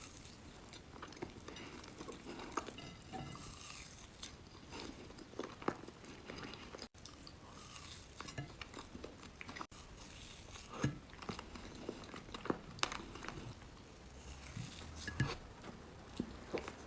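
Faint sounds of cheesecake being eaten: soft chewing and mouth sounds with many small clicks scattered throughout.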